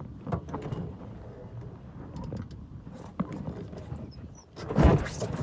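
Scattered knocks and clicks of a small sailboat's hardware over a low rumble of wind and water, with a short loud burst of noise about five seconds in.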